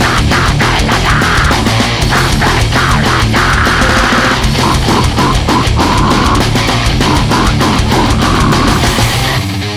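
Extreme metal music: heavily distorted guitars with fast, dense drumming. Shortly before the end the drums stop and the distorted guitar carries on alone.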